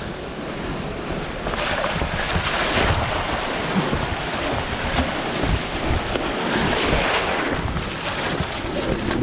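Steady rushing noise with wind buffeting the microphone in irregular low rumbles, growing louder about a second and a half in.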